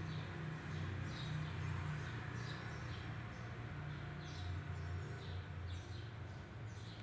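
Small birds chirping in the background, short high chirps every second or so, over a steady low hum.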